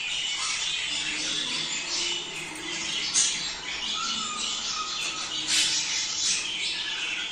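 Budgerigars chattering and warbling without a break in their mating chatter, with sharper, louder squawks about three seconds in and again past five seconds.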